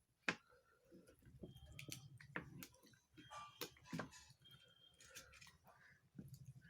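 A person eating, chewing quietly with scattered soft mouth clicks and smacks; the loudest sharp click comes about a third of a second in.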